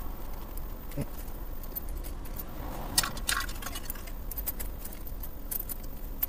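A car's engine idling low and steady, heard from inside the cabin while the car waits at a closed toll barrier, with scattered light clicks and rattles over it: one about a second in, a cluster about three seconds in and more near the end.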